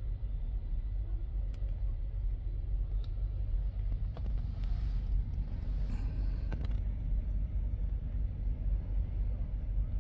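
Heavy diesel truck engine idling, a steady low rumble, with a few sharp clicks and a faint hiss about four to seven seconds in.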